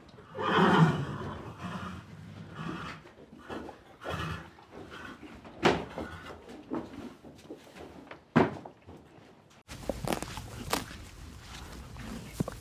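Horse sounds: a loud vocal call from a horse about half a second in, then quieter movement and a few sharp knocks. Near the end the recording changes abruptly to a noisier one with a run of quick knocks.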